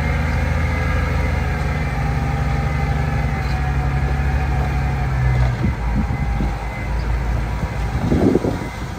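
Heavy diesel engine of earthmoving machinery running steadily. About five and a half seconds in, its steady note breaks up into a rougher, uneven sound, with a brief louder burst near the end.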